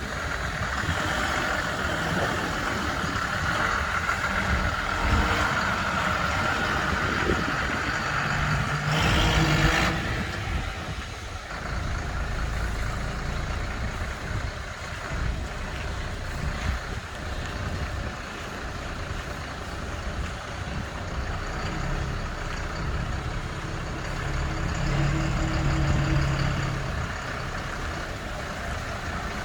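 A heavy vehicle, likely the bus itself, running with a steady, noisy rumble. A short, louder, hissy burst comes about nine seconds in.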